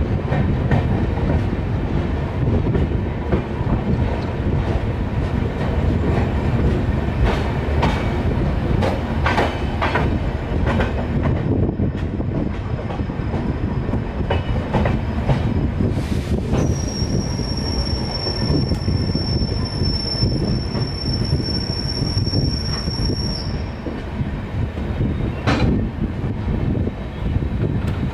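Passenger train rolling out of a station, heard through an open coach door: a steady rumble of wheels on rail with scattered clicks and knocks over the rail joints and points. About halfway through, a steady high-pitched wheel squeal sets in and holds for about seven seconds before stopping, and a single sharp knock comes near the end.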